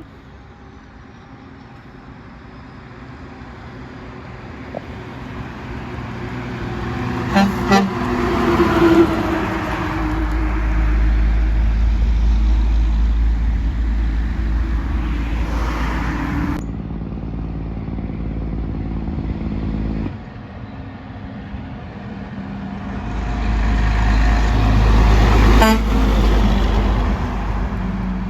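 Semi trucks approaching and passing close by with a heavy engine rumble. One truck sounds its air horn in two short blasts about seven seconds in, just before it goes by.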